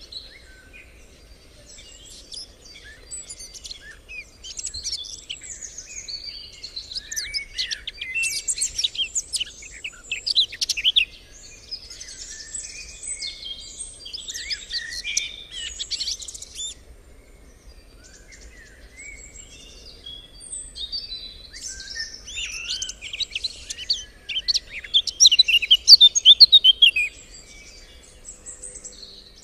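Songbirds singing: rapid high chirps and trills in two long stretches of song, with a short lull in the middle.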